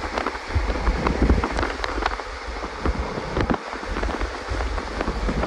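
Passenger train coach running along the track: a steady low rumble with irregular clicks and knocks, and wind buffeting the microphone.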